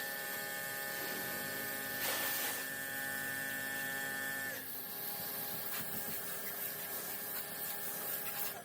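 Steady electrical hum made of several steady tones, with a few brief scrubbing swishes. The tones shift about halfway through, and the hum cuts off abruptly at the end.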